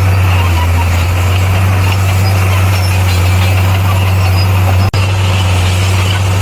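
Heavy earthmoving machine's diesel engine running steadily with a strong low hum, with a momentary dropout just under five seconds in.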